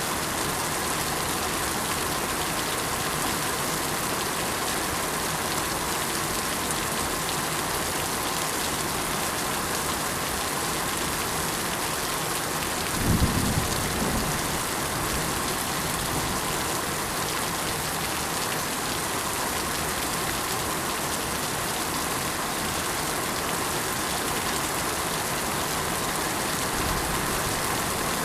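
Steady rain falling, a continuous even hiss of drops on surfaces, with one brief low rumble about halfway through.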